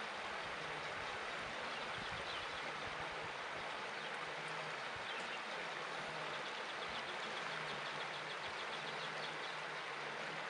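Steady outdoor background noise, an even hiss like running water or wind, with a faint rapid ticking in the second half.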